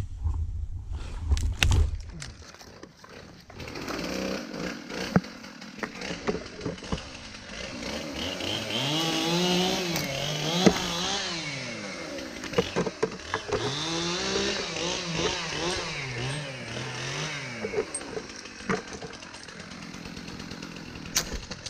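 Chainsaw starting a few seconds in and revving up and down repeatedly as it cuts, most likely the climber's saw working a hung-up limb.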